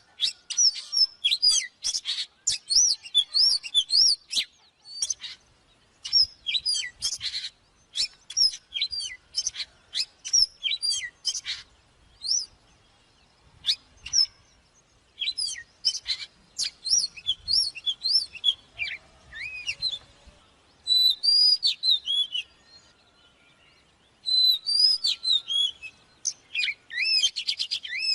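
Oriental magpie-robin singing: rapid runs of varied clear whistles and chattering notes, delivered in phrases broken by short pauses.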